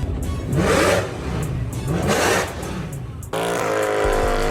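Mercedes-Benz C63 AMG's 6.2-litre V8 revving twice in quick surges, then holding a steady note from about three seconds in.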